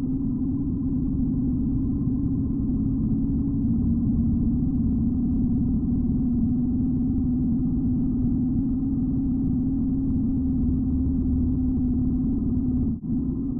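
BMW R75 motorcycle's flat-twin engine running at a steady speed under way, a dense low drone; it drops out for an instant about a second before the end.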